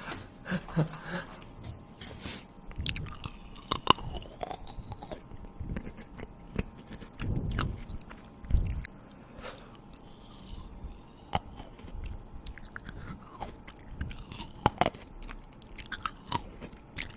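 A person chewing and biting food close to the microphone, with irregular crunches and mouth clicks.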